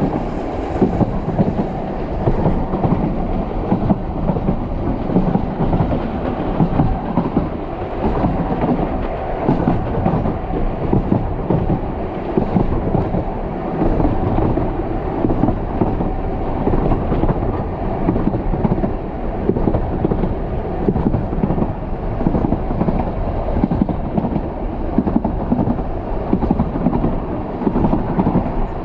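Isle of Man Railway narrow-gauge steam train carriages running along the line, heard from on board: a steady rumble with the clatter of wheels on the track.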